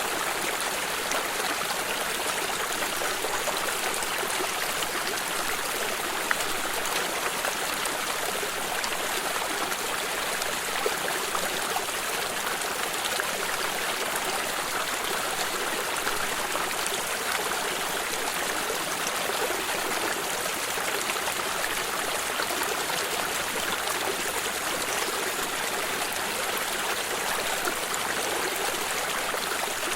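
Water stream running and trickling over stones: a steady, even rush with small splashes and gurgles.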